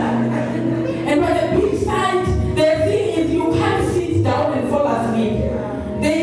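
A woman singing a sustained melody, with steady held low notes underneath.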